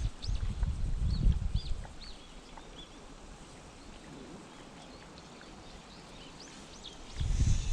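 Small birds calling with many short, high chirps. Bursts of low rumble come in the first two seconds and again near the end.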